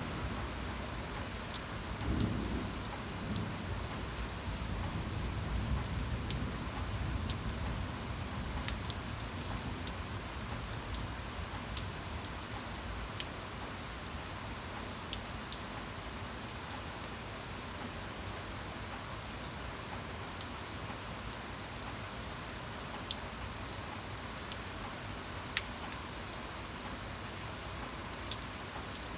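Steady rain falling, an even hiss with scattered drop ticks. A low rumble of thunder runs under it over the first few seconds and fades away.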